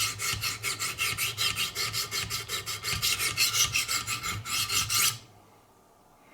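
Coarse 100/200-grit stones of a Wicked Edge guided sharpening system scraping along a knife's edge in quick, even strokes, about five a second, stopping suddenly about five seconds in.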